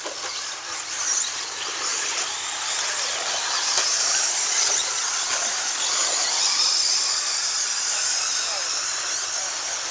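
Radio-controlled stadium trucks racing, their motors and drivetrains making a continuous high-pitched, wavering whine that swells toward the middle.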